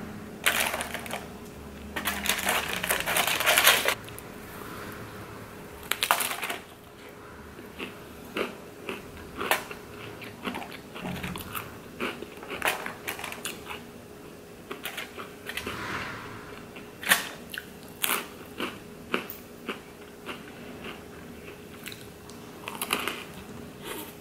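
Close-up crunching and chewing of crunchy Cheetos and pizza: many sharp, crisp crunches at an irregular pace. The first few seconds are louder and denser, with the snacks being handled and crunched.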